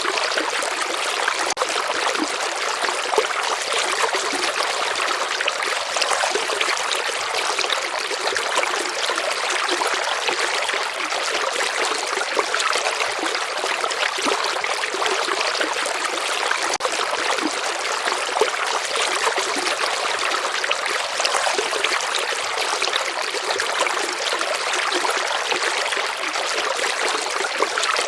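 A gently flowing river: a steady, even rush of running water with fine trickling and small splashes, light and hissy with little low rumble.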